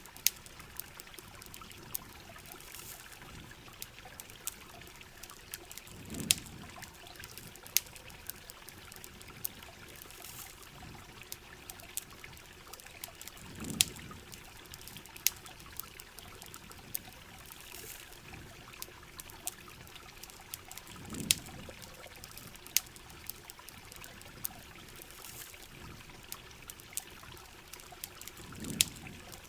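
Steady rain and trickling water with a campfire crackling in sharp snaps throughout. A low swell of water sound comes back about every seven and a half seconds.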